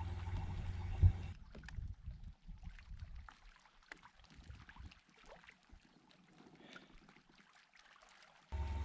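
A sharp knock about a second in over a low, steady rumble, then faint scattered ticks and small splashes of water aboard a fishing kayak as a just-landed fish is handled, fading to near silence.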